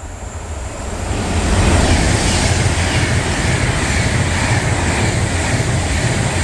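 Class 390 Pendolino electric train running through the station at speed on rain-soaked track. A rush of wheel and air noise builds over the first second and a half, then holds loud and steady.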